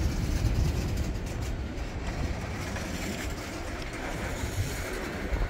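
Empty coal train's hopper cars rolling past with a low, steady rumble.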